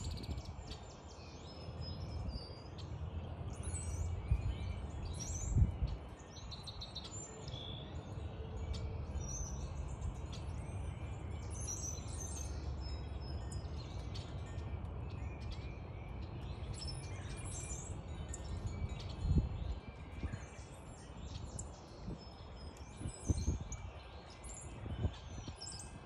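Backyard birds chirping and calling, many short high chirps throughout, over a steady low rumble with a few dull thumps.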